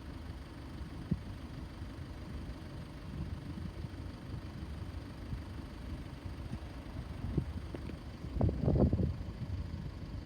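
Low, steady rumble of road traffic, with one vehicle growing louder for about a second near the end.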